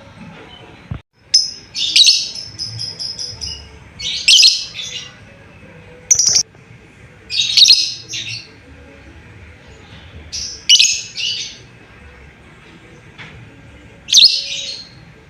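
Lovebird giving short bursts of loud, high-pitched chattering calls, about six in all, a few seconds apart.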